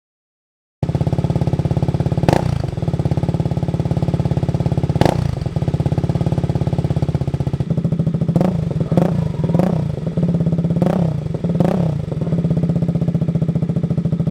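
KTM RC's single-cylinder engine idling through an aftermarket R9 exhaust with a steady, pulsing note. It is given a few short throttle blips, mostly in the second half. The sound cuts in about a second in.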